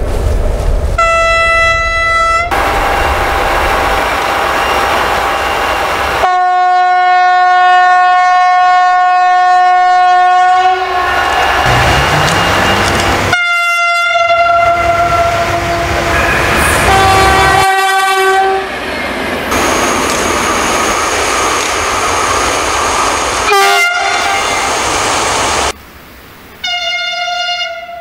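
A string of railway Makrofon air horn signals from different trains, cut one after another: short blasts and one long blast of about four seconds, each at its own pitch, with passing-train rumble between them.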